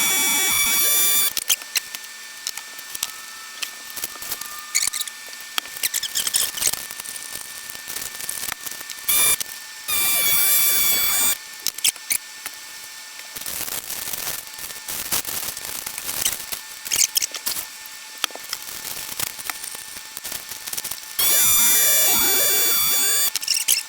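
Handheld FoodSaver vacuum pump whining in three short runs, each about one and a half to two seconds long, as it draws the air out of zipper bags of whole chickens. Between the runs there is plastic rustling and clicks from the bags being handled.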